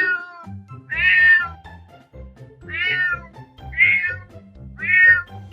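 Domestic cat meowing repeatedly, about five meows roughly a second apart, each about half a second long, with music underneath.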